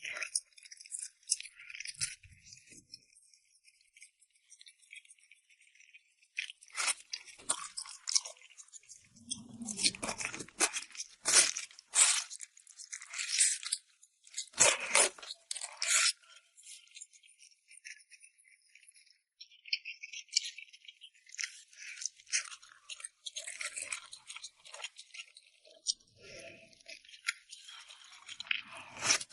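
Close-miked eating sounds of chili-oil rice noodles: irregular clicks, scrapes and crunchy bursts of utensils against a bowl and of mixing and chewing, with fuller bursts in the middle.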